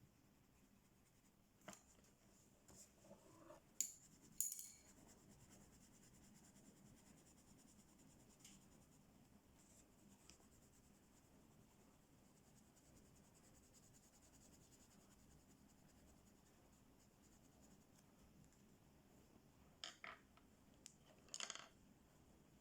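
Near silence with faint coloring on paper, broken by a few short sharp clicks a couple of seconds in and again near the end, as coloring tools are handled and set down.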